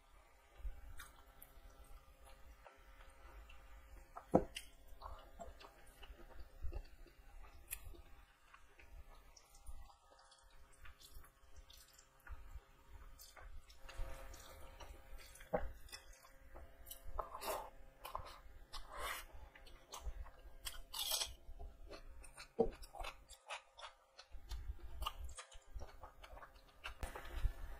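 Faint close-up chewing and wet mouth sounds of someone eating rice and curry by hand, broken by a few sharp clicks and taps.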